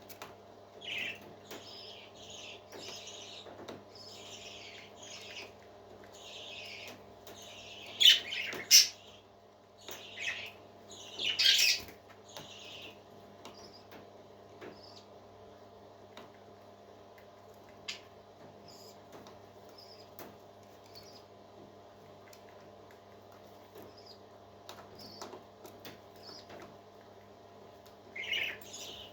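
Baby parrot chirping in a quick run of high peeps, the loudest about eight and eleven seconds in, then only scattered faint peeps until a new burst near the end. A steady low hum runs underneath.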